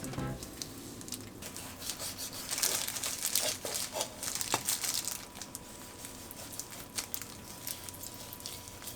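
Crinkling and rustling of handled material with scattered light clicks, loudest from about two and a half to five seconds in.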